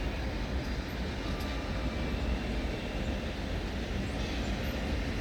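Steady low rumble of a locomotive-hauled train in the station, with faint steady tones above it.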